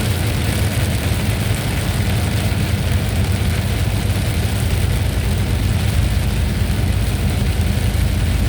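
Steady thunderstorm ambience: a continuous hiss over a heavy low rumble, with no distinct thunderclap.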